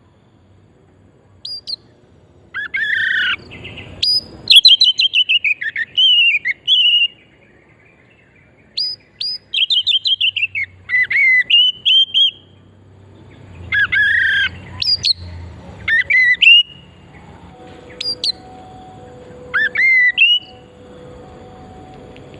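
Oriental magpie-robin singing: loud bursts of clear whistled phrases, with falling slurred notes and sharp rising chips, broken by short pauses.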